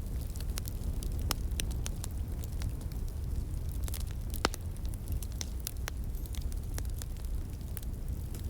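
Wood fire burning and crackling, with irregular sharp pops and snaps, one louder pop about four and a half seconds in. A low steady rush runs beneath.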